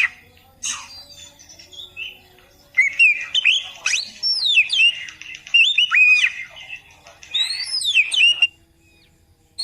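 Oriental magpie-robin (kacer) singing rapid, varied whistled phrases with sweeping and falling notes: a short burst at the start, then a long run of song from about three seconds in that stops shortly before the end.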